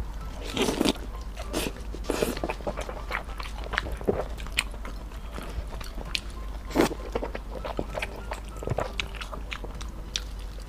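Close-miked chewing and biting of stir-fried noodles and egg: irregular wet mouth clicks and smacks, with a few louder bites.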